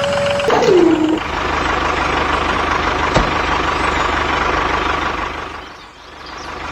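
A motor running with a steady, noisy hum. About half a second in, a tone drops in pitch. There is one sharp click about three seconds in, and the sound dips and swells back near the end.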